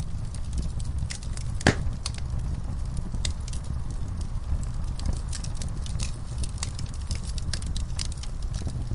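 Wood fire burning in a fireplace, crackling with irregular sharp pops over a low steady rumble of the flames. One pop, a little under two seconds in, is much louder than the rest.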